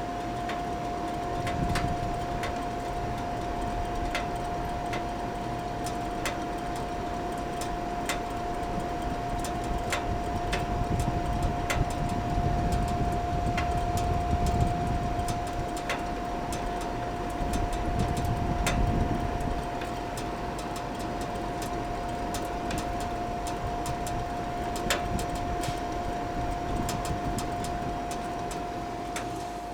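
Monitor 422 kerosene heater running with its burner lit: a steady whine, scattered ticks, and a low rumble that swells about twelve seconds in and again near nineteen seconds.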